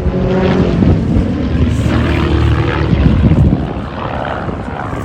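A formation of RV-8 aerobatic planes passing low and loud, their propeller engines droning, then falling away and fading about three and a half seconds in.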